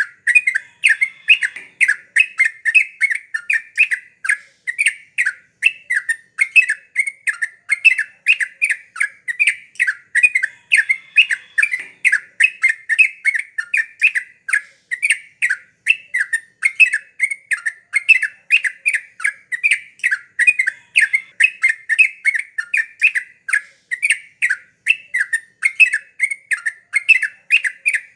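Sooty-headed bulbul (trucuk) singing in a fast, unbroken run of short chattering notes around 2 kHz, several a second. It is the lively 'gacor' song used to provoke a quiet caged trucuk into singing.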